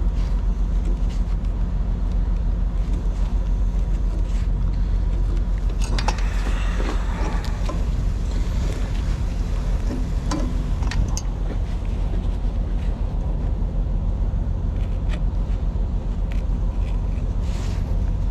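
Steady hum of an idling engine, with scattered scrapes and clicks of a blade cutting wrapped tape off a truck air hose, busiest about six to eight seconds in.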